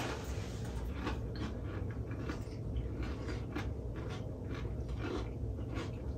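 Chewing and crunching of chips and other snack food, a string of short irregular crunches.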